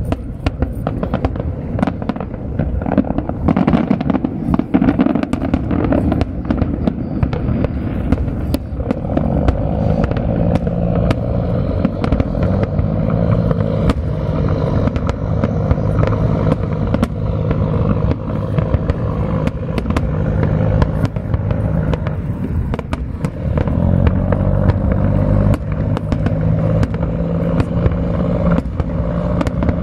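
Fireworks display: shells bursting in a dense, continuous barrage with many sharp bangs and crackles. From about ten seconds in, a steady low hum runs beneath it.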